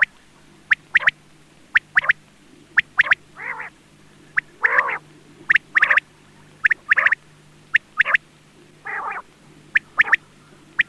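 Quail calling over and over: short sharp notes in quick pairs and threes, broken every second or two by a longer, wavering buzzy note.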